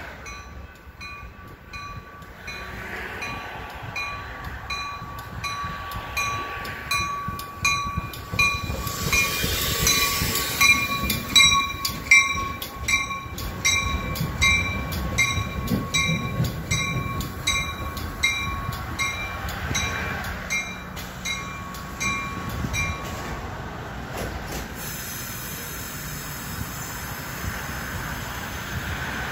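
Metra commuter train passing, its rumble and rail noise swelling through the middle and easing off. A bell rings steadily about three strikes every two seconds and stops about 24 seconds in.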